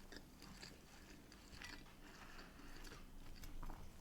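Faint chewing of a mouthful of fish and chips, with soft wet mouth clicks, a little louder in the second half.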